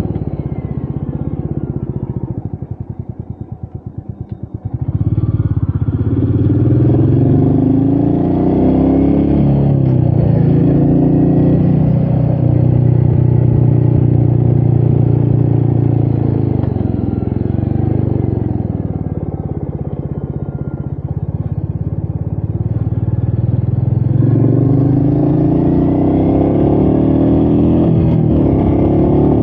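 Royal Enfield Meteor 350's single-cylinder engine under way. It slows off the throttle at first, dropping to a quiet, pulsing run for a couple of seconds. About five seconds in it picks up and pulls steadily, eases off in the middle, then pulls again near the end.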